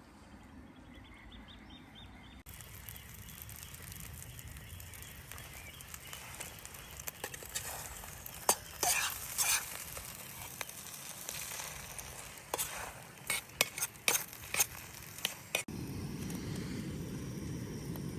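Food sizzling in a pan over a campfire, with a run of sharp clinks and knocks in the middle. Near the end the sound switches abruptly to a lower, steady rushing noise.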